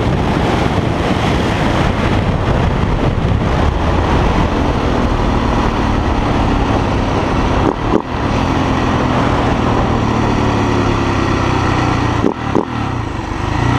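Motorcycle riding at road speed, its engine running steadily under heavy wind rush, with two brief drops in the sound about eight and twelve seconds in.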